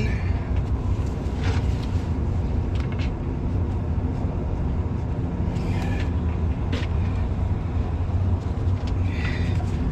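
A steady low engine hum runs throughout. Over it come a few scattered clicks and knocks as a plastic DEF line connector is handled and pressed onto its fitting.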